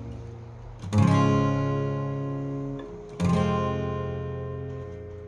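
Acoustic guitar strummed twice, about a second in and again about three seconds in, each chord ringing out and fading between strokes.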